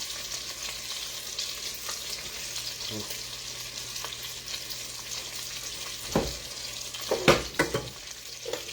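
Lamb chops sizzling steadily in a frying pan, with a knock about six seconds in and a quick run of clanks a second later.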